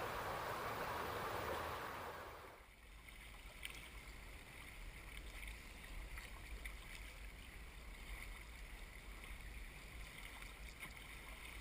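Running river water, a steady rush that fades out about two and a half seconds in, leaving faint water lapping with scattered small ticks and a low rumble.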